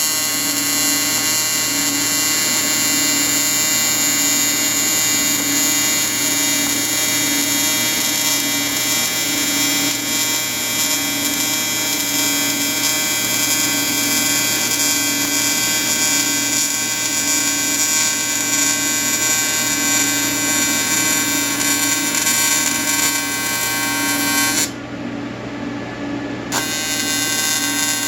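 Electric welding arc buzzing steadily with a slight pulse, cutting out for about two seconds near the end before striking again.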